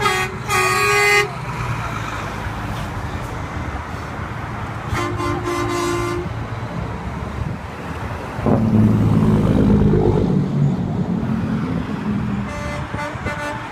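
Truck horns honking in several separate blasts over the steady rumble of passing truck engines, with a deeper, louder tone about eight and a half seconds in.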